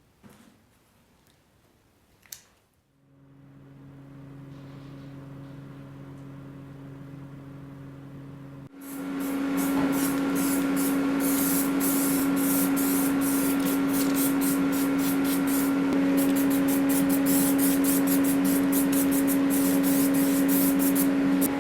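A workshop motor hums up to speed, then about nine seconds in a loud rushing air hiss starts and runs on steadily over the hum, typical of an air-powered tool in use.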